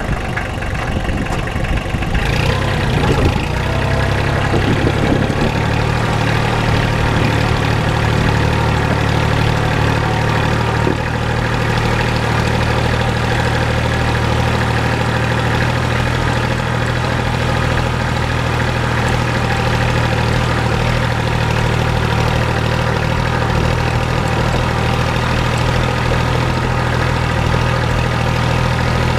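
Kubota L235 tractor's diesel engine running. It picks up speed about three seconds in, then runs steadily.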